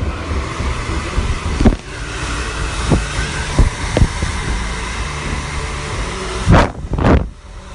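Barbershop room ambience: a steady motor-like running noise with several sharp knocks and clatters through it, the two loudest close together near the end.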